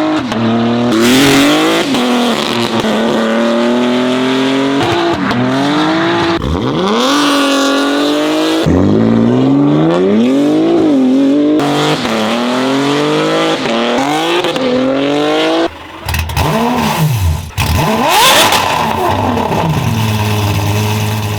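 Several BMW M3 G80s on aftermarket exhausts, their twin-turbo straight-six engines revving and accelerating hard, the pitch climbing and falling again and again. Several abrupt cuts fall between the separate clips.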